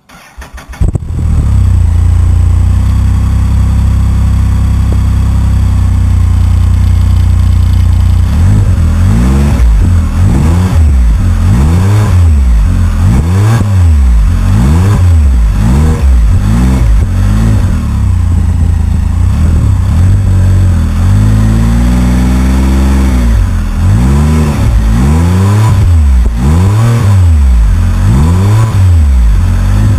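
2014 Can-Am Spyder RT-S's Rotax 1330 three-cylinder engine, breathing through an Akrapovic sports exhaust, starts up and idles steadily, then is blipped again and again, each rev rising and falling about once a second, with a longer, slower rev in the middle.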